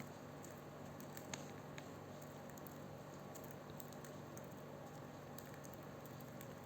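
Faint, scattered small clicks and taps over a steady low hum, with no calls or speech.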